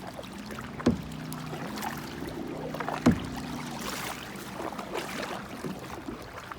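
Kayak paddling: paddle strokes splashing in the water, with two sharp knocks about two seconds apart, and a low drone that fades out about halfway through.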